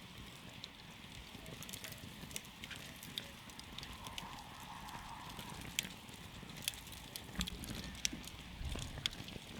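Wood campfire crackling: scattered sharp pops and snaps over a steady low rush of burning. A few louder pops come in the second half.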